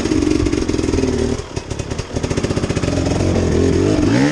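Off-road vehicle engine running under changing throttle, its pitch easing off briefly and then rising sharply as it revs up near the end.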